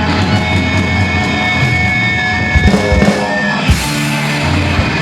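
Live punk rock band playing loud distorted electric guitars over bass and drums, with a few heavy drum hits in the middle.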